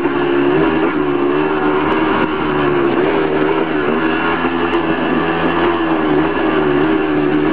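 Dirt bike engine running at fairly steady revs while riding, its pitch wavering slightly up and down with the throttle.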